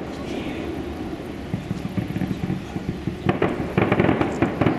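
Fireworks display: a steadier rumble with few distinct bangs at first, then from about three seconds in a rapid run of sharp bangs and crackling.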